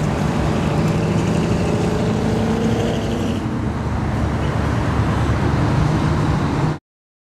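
Car engines running in slow street traffic, a steady low engine note with road noise, cut off abruptly near the end.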